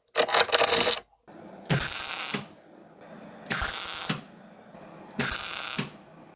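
Mechanical ratcheting strokes: a short one, then three even strokes of about two-thirds of a second each, roughly every second and a half, each starting and ending with a knock.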